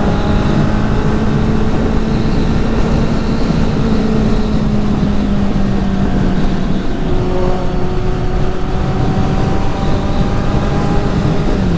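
Kawasaki Z800 inline-four engine running through a straight-through exhaust, a loud steady note that holds a constant pitch and drops a little about seven seconds in.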